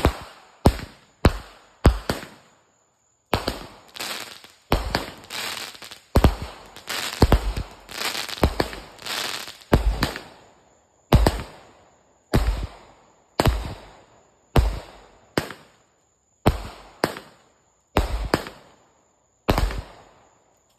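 Consumer firework going off: a series of sharp bangs about one a second, each with a short crackling tail, with a denser run of overlapping crackling reports in the middle.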